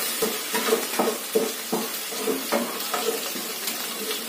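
Chilli-ginger paste and turmeric sizzling in hot oil in a nonstick kadhai, with a spatula stirring and scraping against the pan in repeated short strokes as the masala is fried on a high flame.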